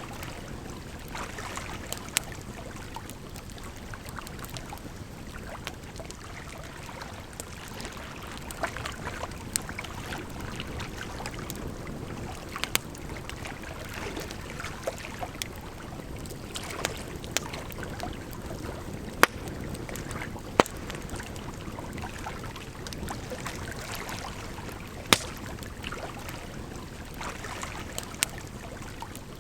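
Campfire crackling, with irregular sharp pops scattered over a steady rush of flowing water.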